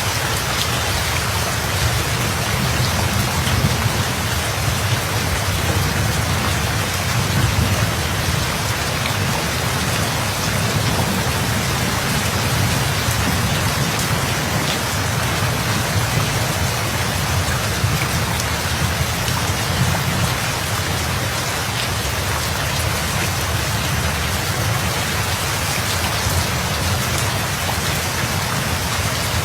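Steady rain falling on a surface, with fine drop ticks, over a continuous low rumble of thunder. No single clap stands out.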